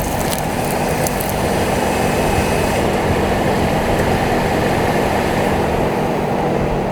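Jeep Wrangler driving, its engine running steadily under a loud rumble of road and tyre noise, with a few light ticks in the first second or so.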